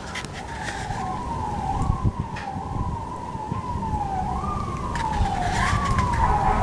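Emergency vehicle siren cycling, each sweep rising sharply and falling away, about once a second, over a low rumble of wind on the microphone.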